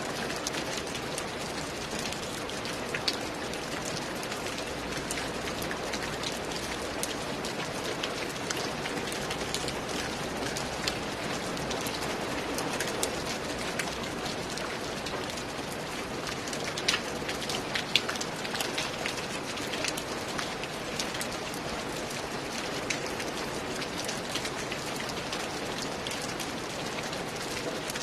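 Steady rain falling, with individual drops striking close by as scattered sharp ticks, a few louder ones about three seconds in and around seventeen to eighteen seconds in.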